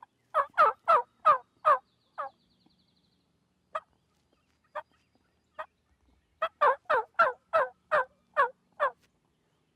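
A series of turkey yelps: a run of about six evenly spaced, downward-sliding yelps, three single yelps spaced out, then a second run of about eight.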